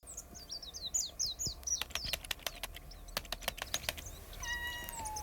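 A cat gives one drawn-out meow near the end that drops in pitch as it trails off. Before it come a quick run of high, falling chirps and then a string of sharp clicks.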